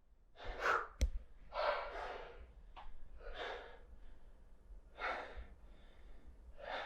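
A person breathing heavily, with deep gasping breaths about every second and a half, and a single sharp knock about a second in.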